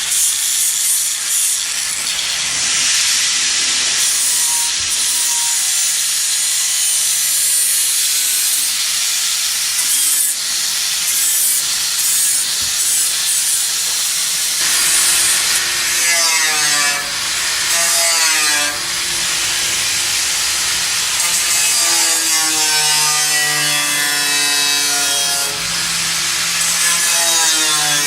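A saw cutting through wood steadily. About halfway through, a whine that wavers in pitch joins the rasp of the cut.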